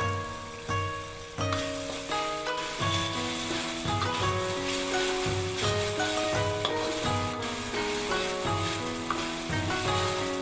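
Chopped chilli and garlic sambal sizzling in hot oil in a wok, the sizzle growing stronger about a second and a half in, with a metal spatula stirring and scraping the pan. Background music with a steady beat plays underneath.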